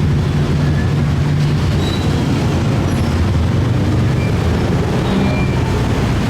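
Engine running steadily with a loud, even low hum.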